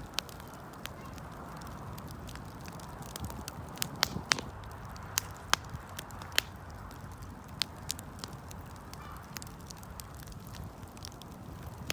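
Wood campfire burning: irregular sharp crackles and pops, a few louder snaps around the middle, over a steady low rush of the flames.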